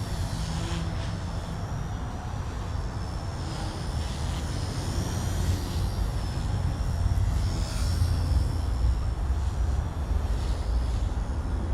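XK K110S micro RC helicopter in flight: a high, thin whine from its brushless motor and rotors that wavers slightly up and down as the collective pitch is worked, over a steady low rumble.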